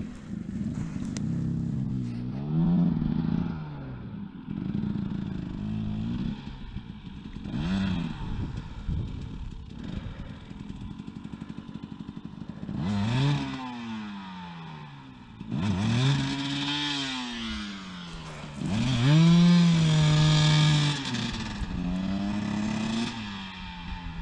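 Off-road motorcycle engine revving up and down in repeated bursts, its pitch climbing and dropping each time, loudest in the second half.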